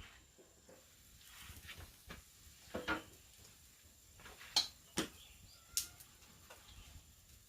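Scattered sharp knocks and clicks, about five of them spread irregularly through the few seconds, over a faint steady high-pitched tone.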